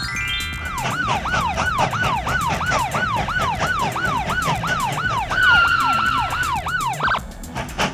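Police siren sound effect: it winds up, then yelps rapidly at about three wails a second, with a longer steady wail joining about halfway. It cuts off about seven seconds in, followed by a couple of sharp knocks.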